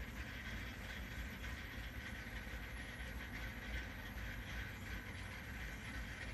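2002 Ford Explorer engine idling roughly: a steady low running sound with an uneven, fluctuating pulse.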